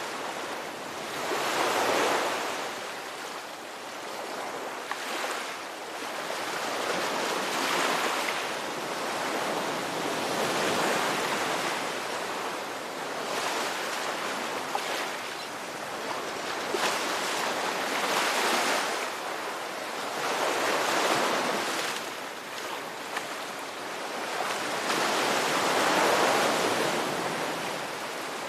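Ocean waves breaking and washing on the shore, the surf rising and falling in swells every few seconds.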